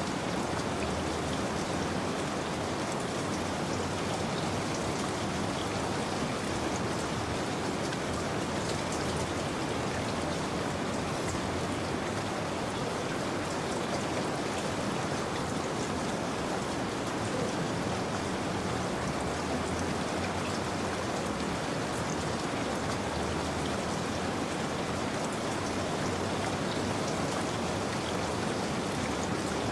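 Steady rain falling, with fine drops pattering on a surface.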